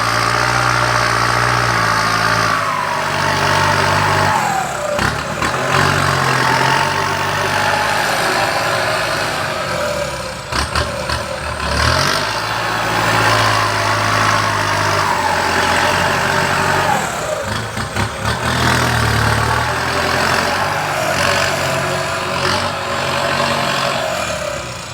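Heavy machinery engines running, working up and easing off so the engine note falls in pitch every few seconds, with a few clunks about 5, 11 and 18 seconds in.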